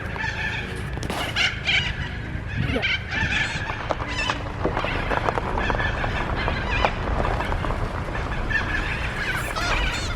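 Birds calling and chattering in many short, scattered calls over a steady low rumble.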